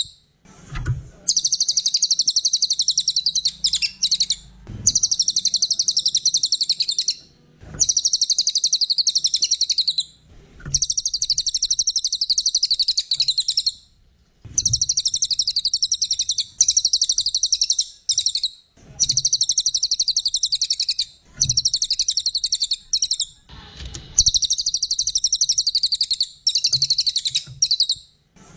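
A songbird singing in long, rapid, high-pitched trilling phrases, each a couple of seconds long, broken by brief pauses. This is a 'masteran' recording of a bird in full song, played to teach other songbirds.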